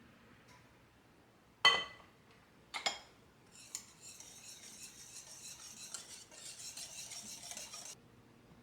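Two sharp clinks of kitchenware, each ringing briefly, then about four seconds of steady hissy scraping that stops suddenly.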